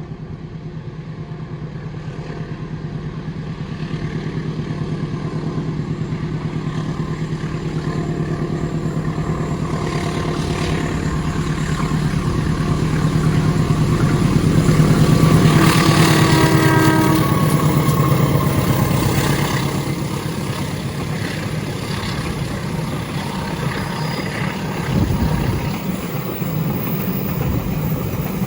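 Train passing: a diesel engine's drone grows louder, peaks about halfway through with its pitch sliding down as it goes by, then eases off while the train keeps rolling.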